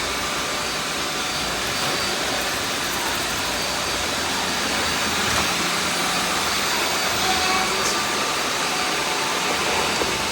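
Many vacuum cleaners running together: a steady, dense motor noise with several faint steady high whines running through it.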